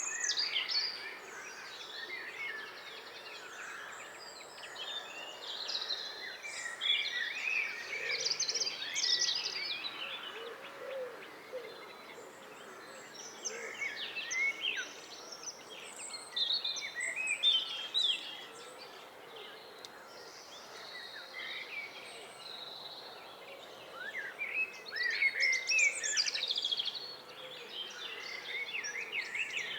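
Several songbirds singing at once, overlapping varied warbling phrases that swell in busier bursts and ease off between them.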